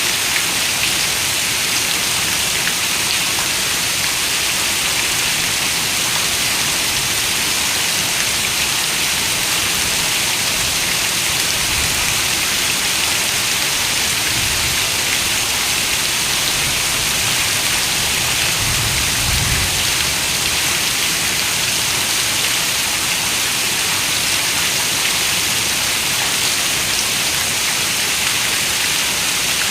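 Steady rain, an even, dense hiss of falling drops, with a faint low rumble swelling briefly about two-thirds of the way through.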